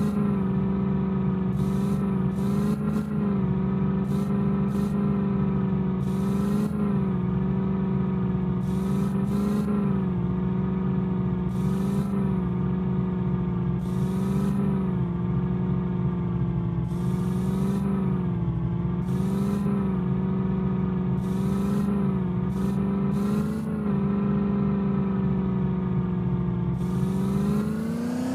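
Small Maruti hatchback's engine running at a steady pitch while driving over rough ground, the note wavering slightly, with repeated short clatters and knocks over the bumps. The engine revs up near the end.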